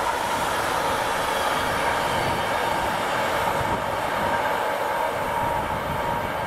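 Container freight wagons rolling past at steady speed, a continuous rumble of steel wheels on rail with a faint steady ringing tone above it.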